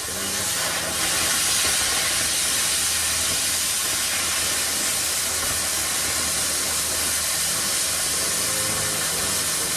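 Plasma cutter cutting through sheet metal of a truck bed: a steady, loud hiss of the arc and air over a low electrical hum, cutting off abruptly at the end as the cut stops.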